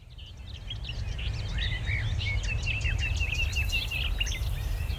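Many songbirds chirping and trilling at once in a dawn chorus, over a steady low rumble. The sound fades in over the first second or so.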